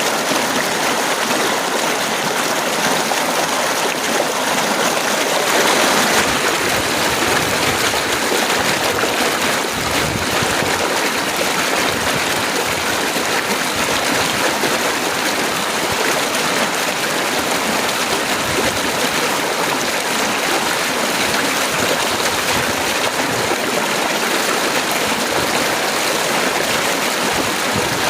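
Heavy rain falling steadily, an even dense hiss that swells a little about five seconds in.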